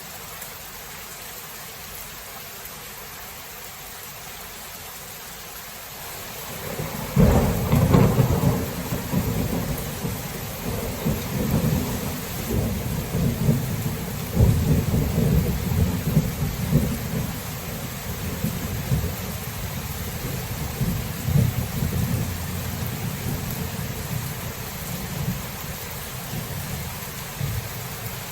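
Steady rain hiss, with a thunderclap breaking in about seven seconds in and a long, rolling low rumble of thunder that slowly dies away under the rain.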